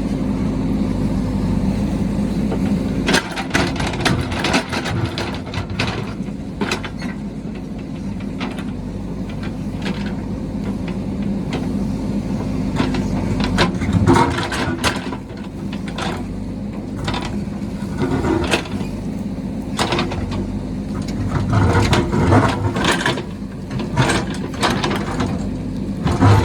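Heavy construction machine's engine running steadily, with frequent sharp clanks and knocks throughout; the knocks come thickest around the middle and near the end.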